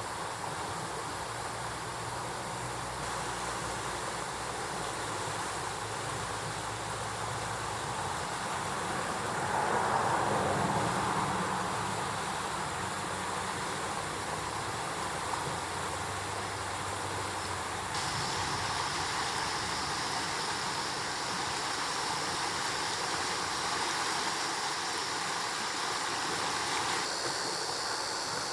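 Mountain stream water rushing over rocks, a steady noise that shifts abruptly in character several times as one stretch of water gives way to another, with a brief swell about a third of the way through.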